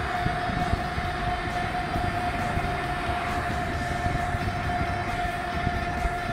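Passenger train running: a steady rumble with a constant high whine held at one pitch throughout.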